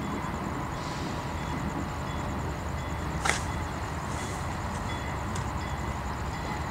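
Distant train rumbling low and steady, with one brief sharp crack about three seconds in and a steady high pulsing trill throughout.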